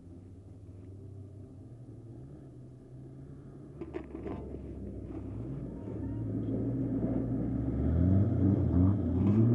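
Engines of old race cars and vans on a dirt track, distant at first and growing louder as the cars come past close by from about six seconds in. Near the end the engine note rises and drops repeatedly as they rev through the bend.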